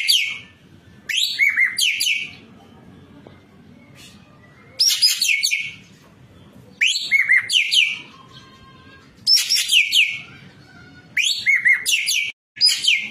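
Ekek keling singing: short bursts of rapid, sharply rising-and-falling high notes, repeated about every two seconds.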